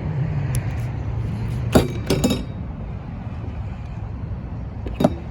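Rear liftgate of a 2016 Kia Sorento being popped open: a sharp latch clunk followed by a few quick metallic clicks about two seconds in, and another sharp click near the end, over a steady low rumble.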